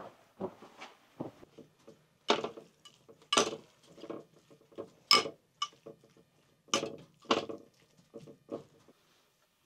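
Cookware and cutlery clinking and knocking in irregular sharp strikes, a few much louder than the rest, during food preparation. The strikes stop about nine seconds in.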